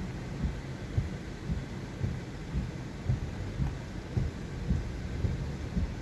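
Wind buffeting the microphone: an irregular low rumble of thumps over a steady hiss.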